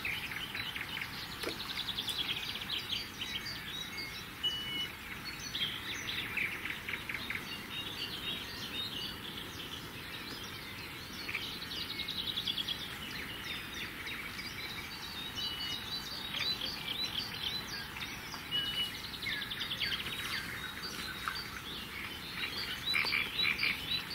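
Songbirds singing and calling: repeated chirps and quick trills, with a few short, high, level whistles.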